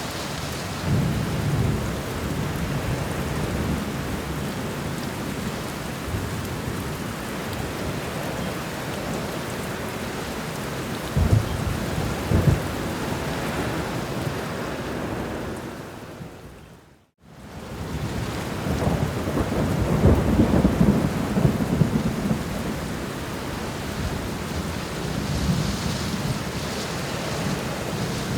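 Steady heavy rain with rolling thunder rumbling low several times. About two-thirds of the way through, the sound fades out to a moment of silence and fades straight back in.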